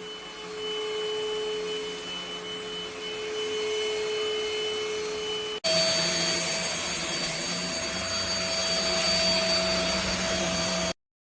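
SVHT V15 cordless stick vacuum running with a steady whine. About halfway through it changes abruptly to a louder, higher-pitched whine, which cuts off suddenly near the end.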